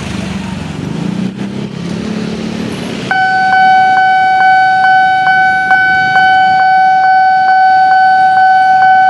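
Railway level-crossing warning alarm starting about three seconds in: a loud, steady high electronic tone with a regular click a little over twice a second, over street traffic noise.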